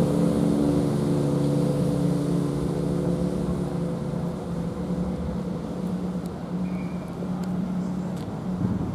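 Class 170 Turbostar diesel multiple unit's underfloor diesel engines running with a steady hum, gradually fading as the train pulls away.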